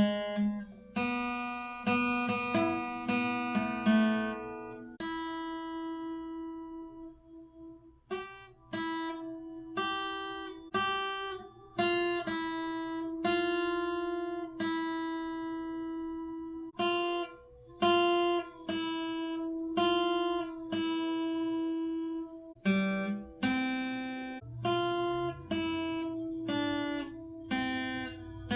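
Acoustic guitar played by a beginner practising: chords strummed and notes plucked one after another, each ringing and dying away, with uneven pauses between them.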